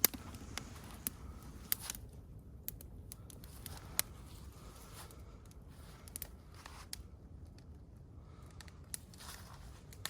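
Campfire crackling: sharp, irregular pops and snaps, a couple of them louder, over a low steady background.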